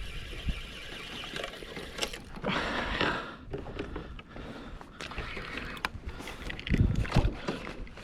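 Noises aboard a small fishing kayak on the sea: water and boat sounds with scattered knocks and clicks, and a loud low rumble, like a buffet on the microphone, about seven seconds in.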